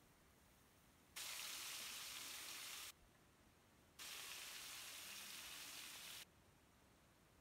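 Stuffed brinjals sizzling in hot oil in a pan, heard in two stretches of about two seconds each that start and stop abruptly.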